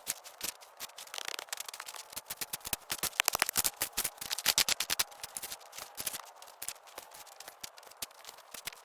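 Shovel digging and scraping dry dirt: a rapid, irregular run of gritty scrapes and clicks, densest in the middle.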